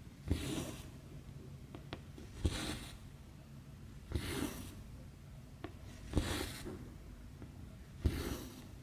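Cross-stitch thread being drawn through 11-count stamped fabric, stitch after stitch: each time a short tap of the needle through the cloth, then a half-second rasping swish as the thread is pulled through, five times at about two-second intervals, with faint small clicks between.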